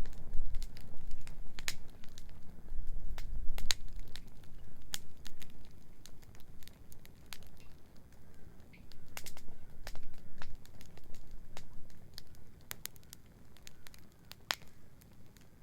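Wood bonfire crackling, with irregular sharp snaps scattered throughout. A low rumble runs underneath, heaviest in the first few seconds.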